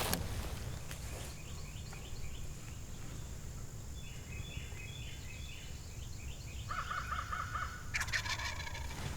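Osceola wild turkey gobbler gobbling once, a rapid rattling call of about a second, about seven seconds in. Fainter high-pitched bird calls come before it, and a brief rustle follows near the end.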